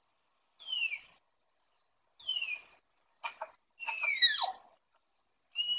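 A series of high-pitched animal squeals, each sliding down in pitch. Four calls come about a second apart, with short chirps between them, and the last is the loudest and longest, dropping lowest.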